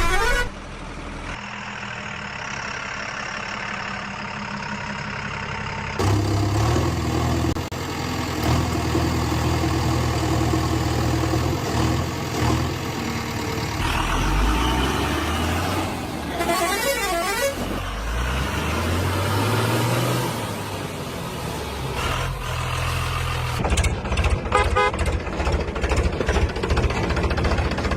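A run of vehicle sounds that change abruptly every few seconds: engines running and rising in pitch, with horn honks.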